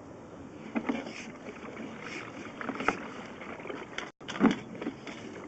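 Sewer inspection camera's push cable being fed down the sewer line: a steady rushing noise with a few scrapes and knocks, the loudest about four and a half seconds in.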